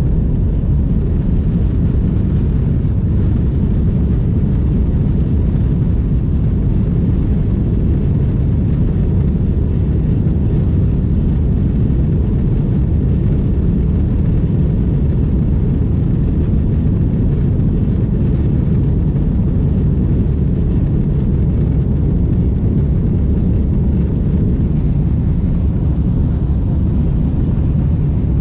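Steady low rumble heard inside an airliner's cabin during takeoff: engine noise and airflow at high power, even throughout.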